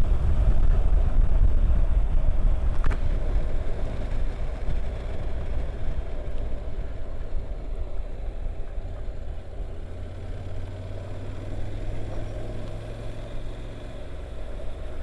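Honda NC750X parallel-twin engine running on the road, heard from the bike with road noise. It is loudest for the first few seconds, then eases off to a quieter, steadier low hum.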